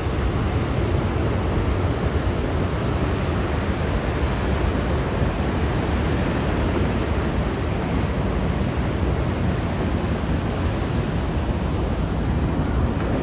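Glacial lake outburst floodwater rushing steadily past, a loud, unbroken noise of churning water with no let-up.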